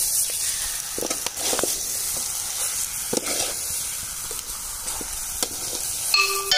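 Raw chicken pieces sizzling in hot oil with onions and spices in a large metal kadai, stirred by a metal ladle that scrapes against the pan a few times. Near the end a short electronic tune starts over it.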